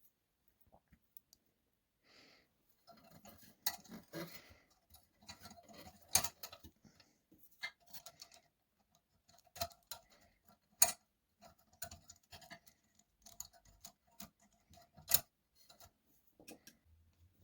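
Irregular light clicks and taps of small hard parts being handled and fitted, with short scraping and rubbing, and a few sharper clicks spread through.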